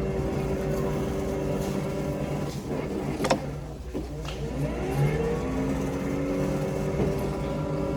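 A vehicle engine running steadily, its pitch rising and levelling off about halfway through as it speeds up, with a sharp knock a little over three seconds in.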